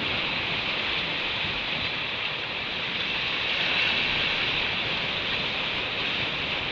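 Ocean surf washing on the shore: a steady rushing hiss.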